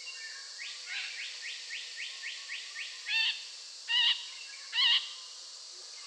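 Birds calling: a quick run of about nine short rising notes, about four a second, then three louder, harsh calls a little under a second apart.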